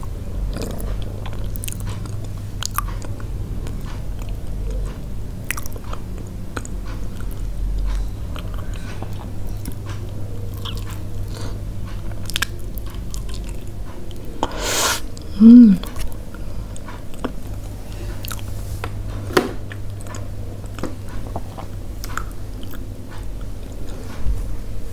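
Close-miked biting and chewing of soft steamed yellow pumpkin, with many small wet mouth clicks. About fifteen seconds in there is one louder noise followed by a brief pitched 'mm' from the eater.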